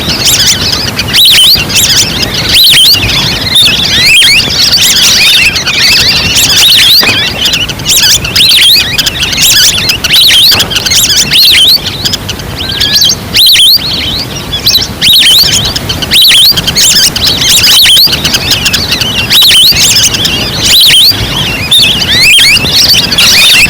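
A flock of ducks calling: many short, high whistling chirps overlapping at once, loud and constant. This is a recorded lure call played to draw waterfowl in.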